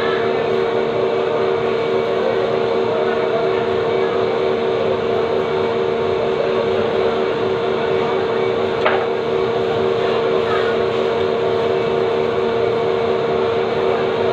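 Steady, loud mechanical hum with a strong unchanging tone, like a fan or refrigeration unit, and a single sharp click about nine seconds in.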